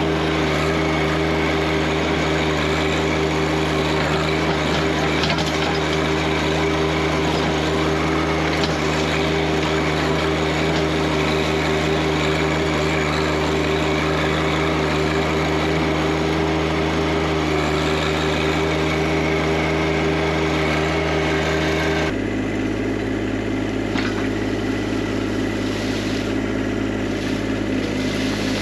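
Tractor engine running steadily under way; its note changes abruptly about three-quarters of the way in.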